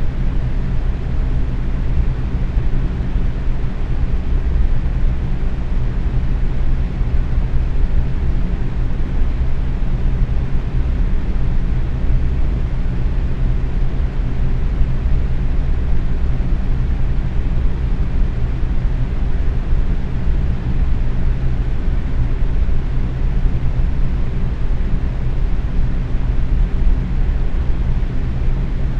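Box fan running steadily at medium speed: a constant whoosh of moving air, heaviest in the low end, with a faint steady motor hum.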